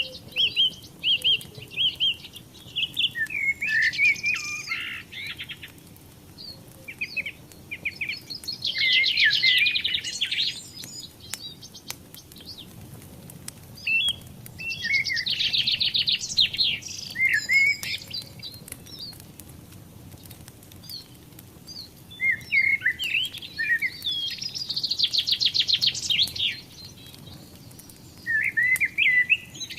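A songbird singing short trilled phrases, each a couple of seconds long, about every six seconds.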